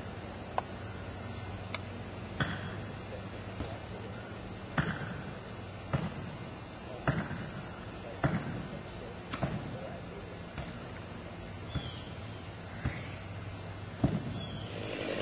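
Steady high-pitched insect buzzing with a series of sharp knocks, roughly one a second, each ringing briefly.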